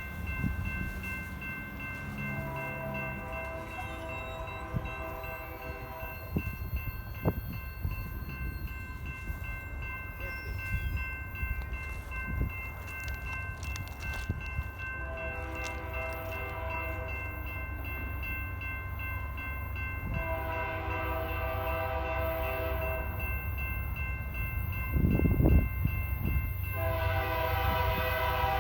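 Freight locomotive air horn sounding four long blasts, the last two close together near the end, over the low rumble of a heavy diesel train.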